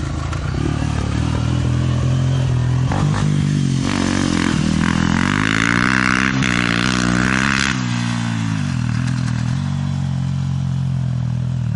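Motorcycle engine running under way. Its pitch wavers up and down with the throttle between about four and eight seconds in, under a loud rush of wind noise that stops abruptly near eight seconds, then it settles back to steadier running.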